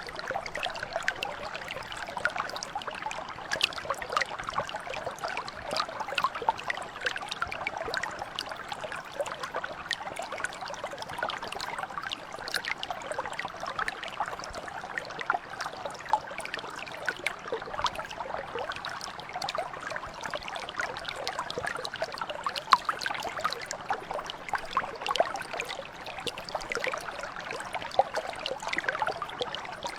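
Mountain brook flowing steadily: an unbroken babble of running water, full of small, quick gurgles and splashes.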